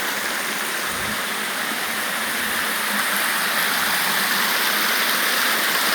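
Steady rushing of a rocky river running low in the dry season, with a few soft low thumps.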